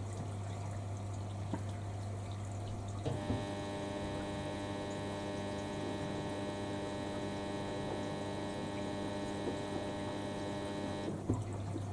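Washing machine running mid-wash: a steady electric motor hum whose tone changes about three seconds in and changes back near the end.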